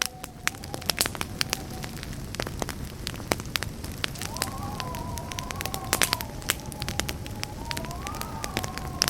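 Wood campfire burning, with irregular sharp crackles and pops over a low steady rumble of flames. A thin wavering whistle runs alongside, jumping higher in pitch about four seconds in.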